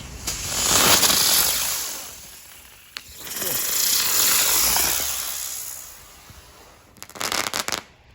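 Dragonfly area spinner firework burning: a loud hiss that swells and fades twice, the second surge beginning just after a sharp click, followed near the end by a quick run of crackling pops.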